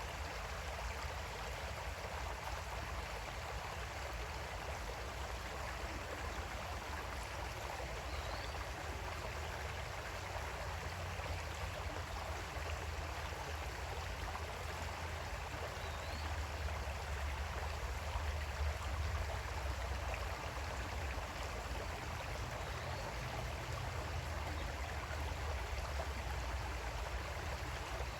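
Water of a small creek flowing steadily over stones, an even, unbroken rush with a low rumble beneath it.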